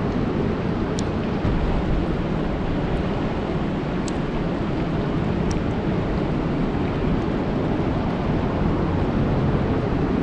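Steady rain falling on a lake's surface, an even rushing hiss heaviest in the low range, with a few faint high ticks.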